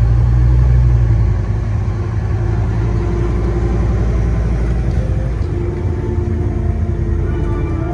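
Scania N230UD Omnicity double-decker bus's five-cylinder diesel engine running under way, heard on board: a low drone, a little louder for the first second or so, then steady.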